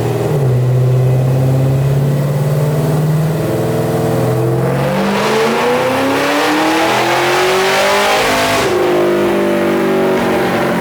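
Car engine on a chassis dyno making a wide-open-throttle pull with two more degrees of ignition timing added: it runs steadily, then revs up in one long rising climb over about four seconds, and drops back sharply when the throttle is lifted about four-fifths of the way in.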